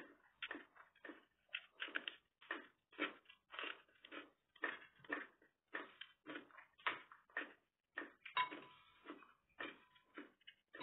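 Close-up mouth sounds of someone chewing food, a wet smacking about twice a second. About eight seconds in comes a brief ringing clink.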